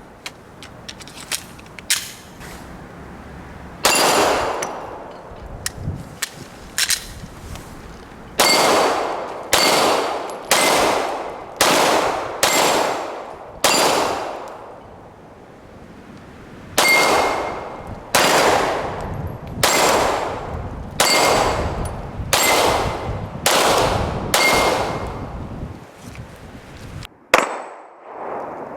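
A 9mm Glock 17 pistol firing strings of shots at steel targets, roughly one to two shots a second. Each shot is followed by the ringing clang of a steel plate being hit. A lone shot about four seconds in is followed by a rapid string, a short pause, then a second rapid string.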